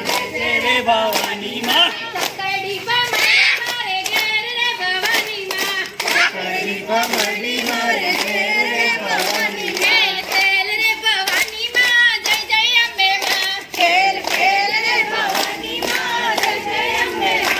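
A garba song with voices singing in a wavering, ornamented line over steady rhythmic hand claps.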